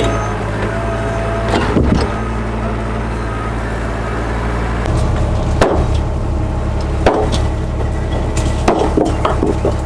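Heavy truck engine running steadily, with a few short knocks and clatters over it.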